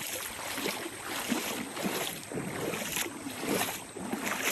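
Footsteps wading through shallow river water, with irregular splashes and sloshing.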